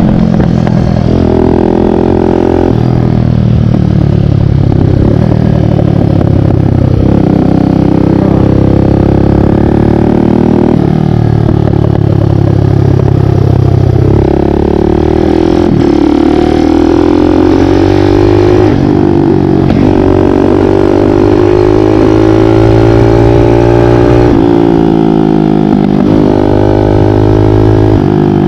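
Big-bore 178 cc Kawasaki KLX dirt bike's single-cylinder four-stroke engine under way. It revs up and drops back repeatedly as the rider accelerates, shifts and rolls off the throttle.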